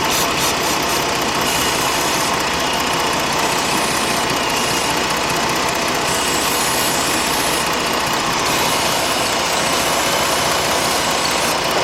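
2006 Jeep Grand Cherokee's 3.7 L V6 idling steadily under an open hood, with a steady hiss over it. The engine has a logged cylinder 3 misfire, and the owner suspects an air leak at the upper intake plenum.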